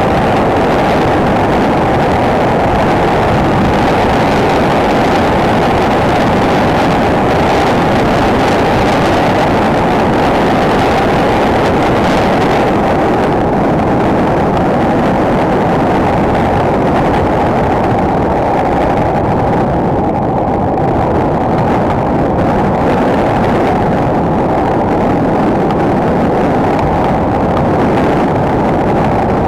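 Single-cylinder four-stroke enduro motorcycle running at a steady pace while riding, heard as a muffled, even drone with wind rushing over the microphone.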